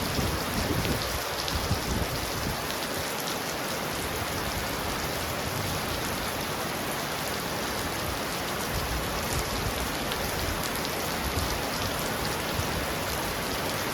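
Heavy rain falling steadily on a roof, a dense even hiss. The tail of a low rumble of thunder fades away in the first two seconds.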